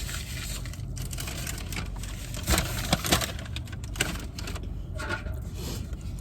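Takeout food packaging being handled: rustling and crinkling with a few sharp clicks, the loudest about halfway through, over a steady low hum.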